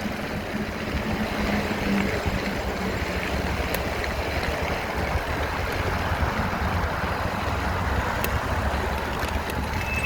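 Steady running noise of the vehicle being ridden along the trail: an even low rumble with a faint hum, unchanging throughout.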